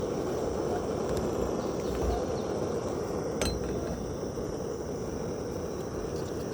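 Camp stove burner running with a steady rushing sound under a pan of breakfast. One sharp metallic clink, like a utensil on the pan, comes about three and a half seconds in.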